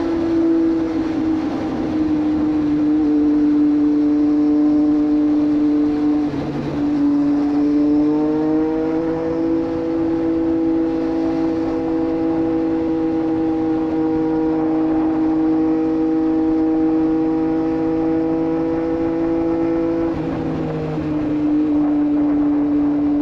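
A Triumph Street Triple 765 RS's inline three-cylinder engine, breathing through a Racefit Growler full exhaust, running at a steady highway cruise. Its pitch dips and climbs back about six seconds in, like a gear change, and falls again near the end as the throttle eases.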